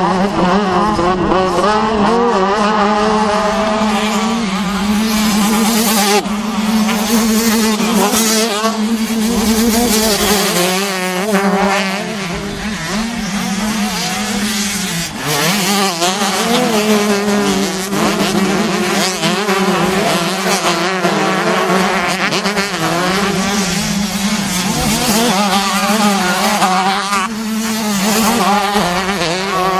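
Several racing dirt-bike engines running together, their pitches rising and falling as the riders rev through the gears and back off.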